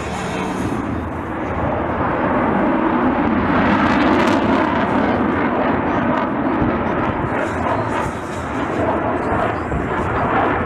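Airplane engine noise of an aircraft flying past, swelling about two seconds in and easing off a little near the end.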